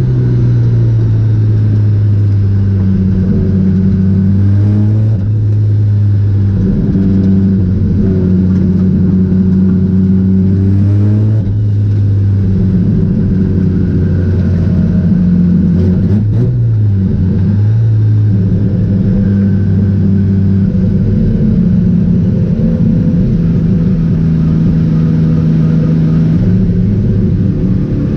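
Mazda RX-7's engine running hard on a track lap, its note holding steady and then shifting in pitch several times with throttle and gear changes.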